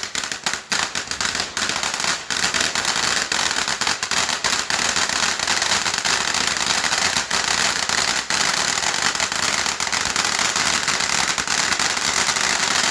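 Ground firework crackling continuously, a rapid, dense stream of sharp pops over a steady hiss.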